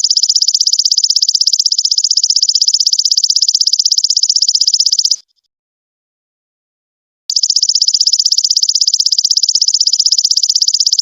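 Golden locust (belalang emas) calling: a loud, rapid pulsing high-pitched buzz that stops about five seconds in and starts again about two seconds later.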